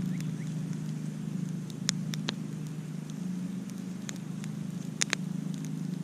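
Wood campfire crackling: scattered sharp pops and snaps, with a cluster about two seconds in and the loudest two close together about five seconds in, over a steady low rumble.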